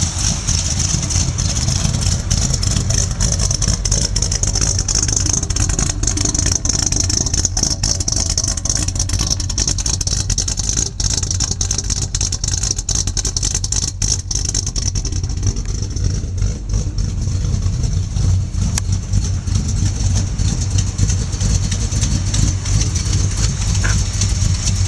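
Dodge W150 pickup engine idling steadily, still cold shortly after a cold start.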